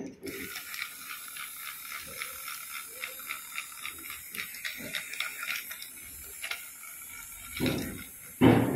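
Small battery-powered toy train motor running with a fast, even gear rattle. A couple of louder knocks come near the end.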